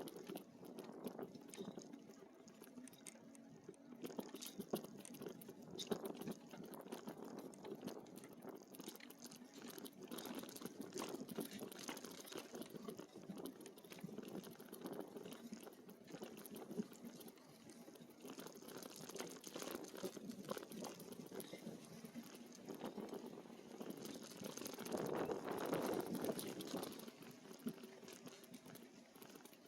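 E-bike tyres rolling over a dirt trail, a steady crackly crunching that grows louder for a couple of seconds near the end.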